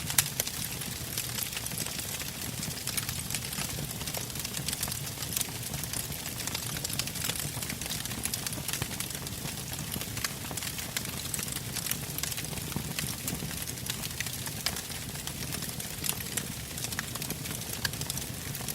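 Wood campfire crackling: frequent irregular pops and snaps of burning logs over a steady low rumble of the flames.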